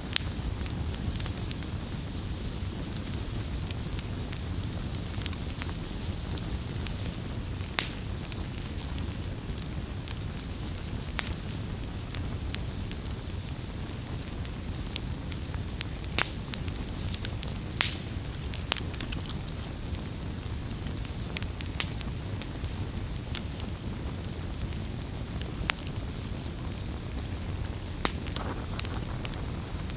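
Wood fire burning with a steady low rumble and irregular sharp crackles and pops, several a second at times.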